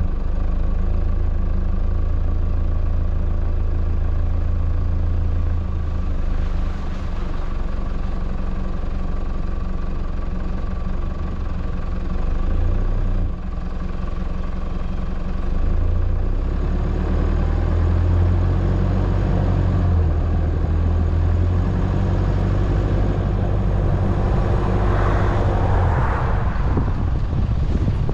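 4WD's engine running as it drives slowly along a dirt track, a steady low drone whose pitch shifts a few times with speed. Near the end a rush of noise swells and fades over a few seconds.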